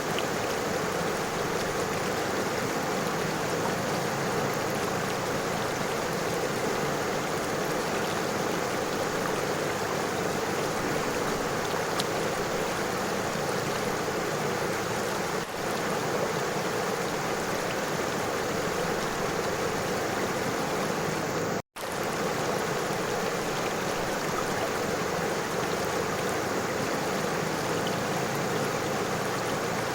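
River water flowing steadily over stones, an even rushing and trickling. It cuts out for a split second about two-thirds of the way through.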